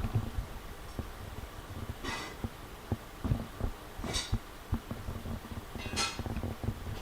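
Handling noise on a hand-held phone microphone: irregular soft thumps and knocks, with three short hissing rustles about two seconds apart.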